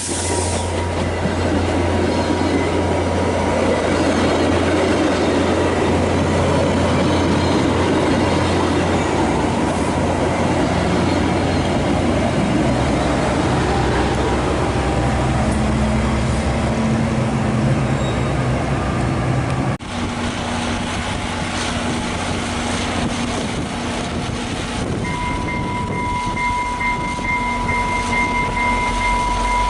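A train passing close by: a steady, loud rumble of rolling rail cars over a low engine hum. It breaks off abruptly about two-thirds of the way through, and a steady high-pitched whine sounds near the end.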